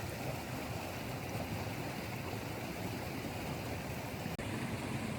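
Valley stream water rushing steadily over rocks, an even hiss.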